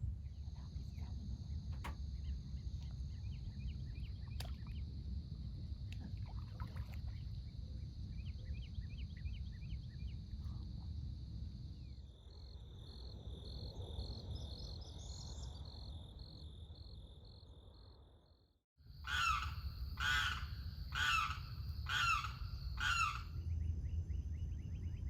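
A steady high insect drone over low wind rumble, with a few faint bird chirps. Near the end a large bird gives a series of about five loud calls, roughly one a second.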